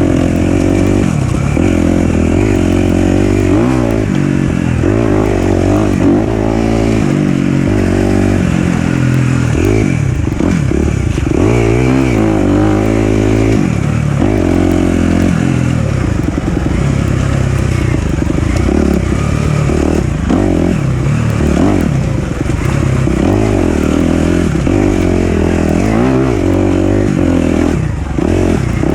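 Four-stroke single-cylinder dirt bike engine ridden hard on a trail. The pitch keeps rising and falling with throttle and gear changes, with no let-up.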